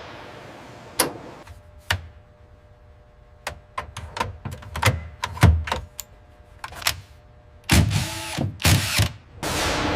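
Metal tools clicking and knocking in assembly work: a run of irregular sharp clicks and knocks, then a few louder, longer noisy bursts about eight and nine seconds in. A steady hum with faint held tones starts just before the end.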